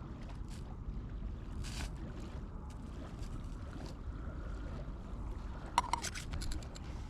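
Small metal camp gear being handled: scattered light clicks, then a short run of sharp clinks about six seconds in, over a steady low outdoor rumble.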